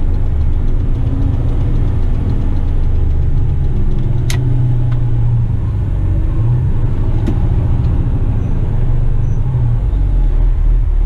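Diesel engine of a loaded Western Star tipper truck running steadily on the road, a low even rumble heard from the cab. A sharp click cuts through about four seconds in.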